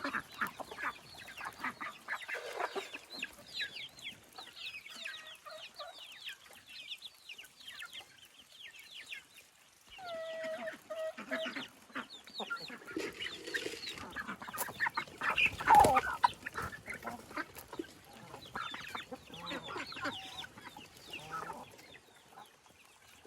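A flock of chickens calling, with many short chirps and clucks overlapping throughout. One louder, sudden sound comes about sixteen seconds in.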